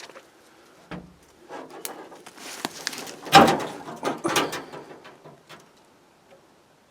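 Dry brush rustling and crackling, with twigs snapping and a few knocks, as someone pushes through it on foot. There is a dull thump about a second in, and the noise is loudest just past the middle.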